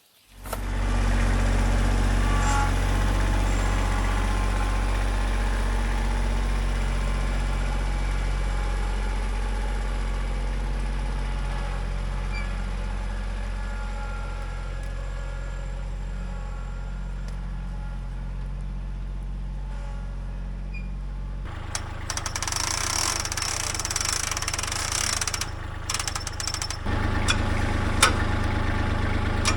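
An engine idling steadily. About twenty seconds in the sound changes, with a hiss for a few seconds, then it settles back into a steady idle.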